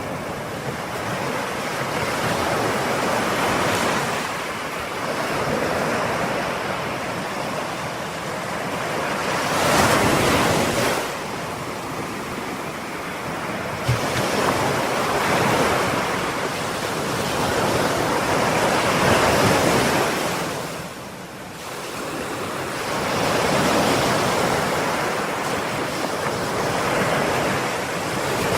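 Ocean surf: waves breaking and washing in as a continuous rush that swells and eases every few seconds.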